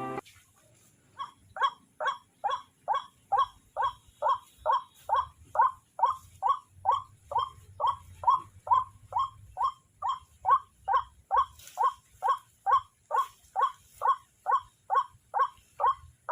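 White-breasted waterhen (ruak-ruak) calling: a long, steady run of short harsh notes, about two and a half a second, starting about a second in.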